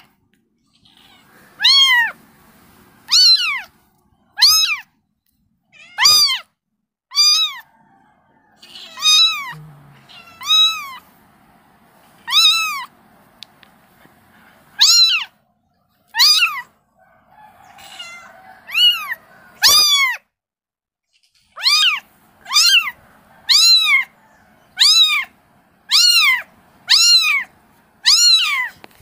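Kitten meowing over and over, high-pitched calls for its mother. There are about twenty short calls, each rising and falling in pitch, coming irregularly at first and then about once a second near the end.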